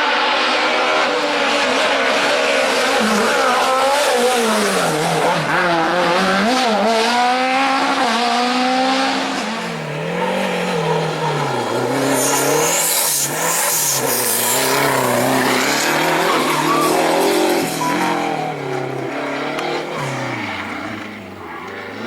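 Car engine revving up and down with tyres squealing, and a harsh noisy burst a little past halfway through.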